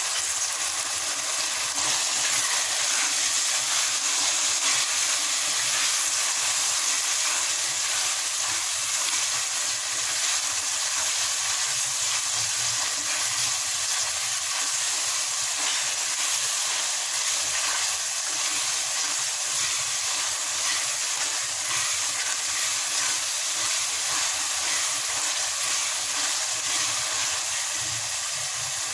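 Onions, tomatoes and ground spices frying in oil in a metal karahi: a steady sizzle.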